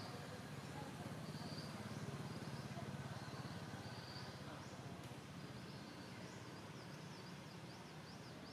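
Faint outdoor ambience: short, high insect-like chirps repeating every second or two, then, from about six seconds in, a quick run of high up-and-down bird chirps, over a low steady hum.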